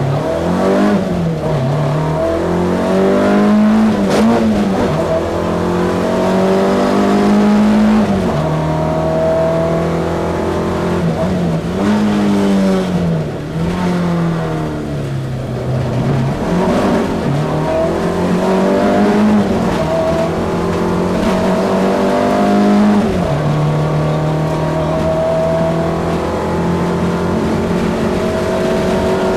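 Opel Ascona A rally car's 1.9-litre four-cylinder engine heard from inside the cabin, pulling hard with its pitch repeatedly climbing and then dropping back as it changes gear and lifts off between accelerations.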